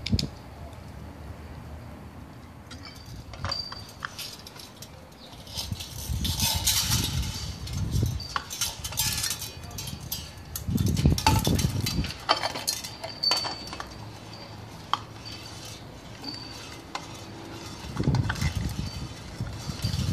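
Irregular light metallic clinks and knocks, with bouts of rustling and handling noise, as small metal parts and hardware are handled.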